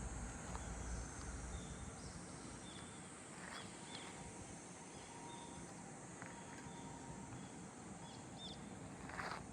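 Faint outdoor ambience: a steady background hiss with short high chirps recurring every second or so and a few light clicks.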